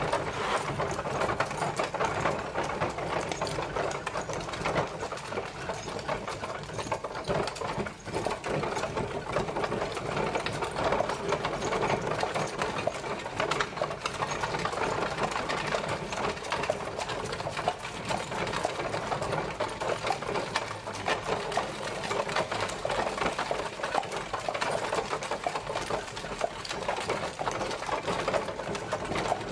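Horse-drawn carriage traveling, its wheels and body giving a steady, fast rattle.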